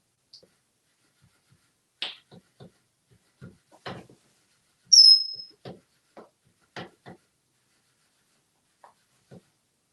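Irregular light knocks and taps as an African grey parrot pounces on a flopping fish and tosses it about. About five seconds in comes one loud, short, high whistle-like squeak that slides down and then holds its pitch.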